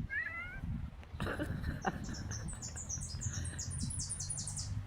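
A songbird singing: a few short gliding chirps at the start, then a quick series of very high, short repeated notes from about two seconds in until near the end. A low rumble runs underneath.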